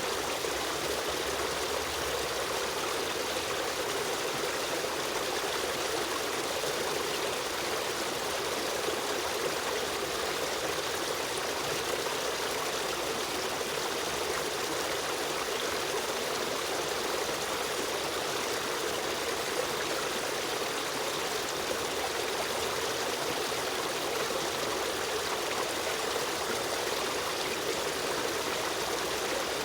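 Steady rushing and trickling of a running stream, an even flow of water with no change throughout.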